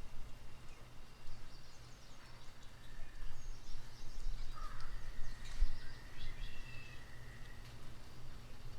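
Outdoor ambience: a steady low rumble with a few faint bird calls, and a single low thump about five and a half seconds in.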